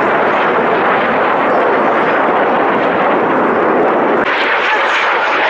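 Loud, steady jet engine noise from aircraft flying a display pass. About four seconds in the sound turns brighter and higher.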